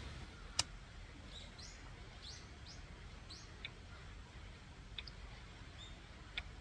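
A small bird calling a quick series of short, high, rising chirps, over a faint low rumble. A single sharp click sounds just before the chirps, and a few softer ticks follow later.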